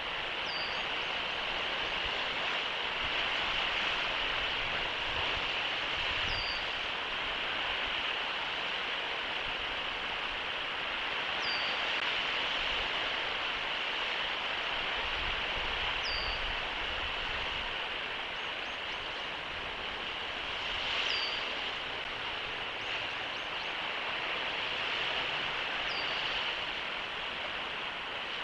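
A short, high bird call repeats about every five seconds, six times, over a steady rushing outdoor background noise.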